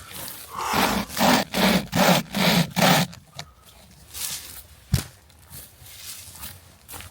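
Hand saw cutting through a dry pine log: a quick run of about six or seven strokes, roughly three a second. It is followed by quieter scraping and a single knock near the end.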